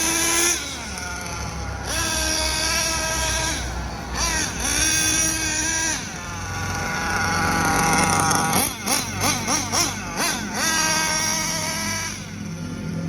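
Hobao Hyper VS nitro RC buggy's small glow engine revving in repeated bursts, each climbing in pitch and then falling back, with a run of quick throttle blips about two thirds of the way through. The engine is being broken in.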